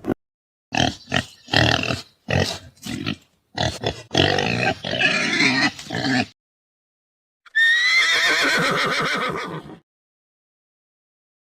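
Animal calls: a quick run of short, loud calls, then after a second of silence one longer call that starts high and drops in pitch.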